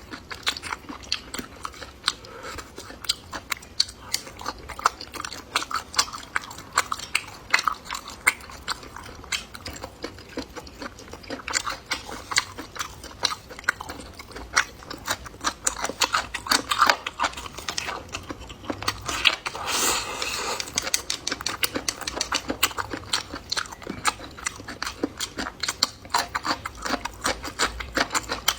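A person chewing and biting food close to the microphone: a steady run of irregular small clicks and crunches, with a short noisier stretch about twenty seconds in.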